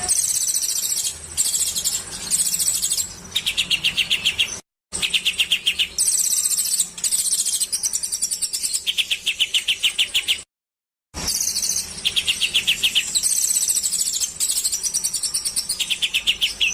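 Edited compilation of small songbirds singing: rapid high-pitched chattering phrases alternating with fast, buzzy trills, cut by brief splices into total silence about five and eleven seconds in.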